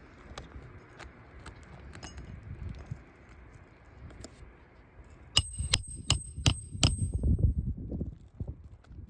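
Hammer driving roofing nails into old asphalt shingles: about five seconds in, five quick blows roughly a third of a second apart, each with a high metallic ring, after a few scattered light taps.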